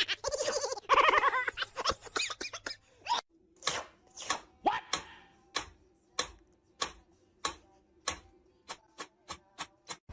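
A series of sharp separate clicks or taps, about one every half second to second and coming faster near the end. They follow a loud pitched sound in about the first second.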